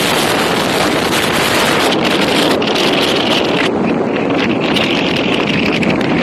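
Steady wind rushing over the microphone of a moving motorcycle, with the bike's running and road noise underneath.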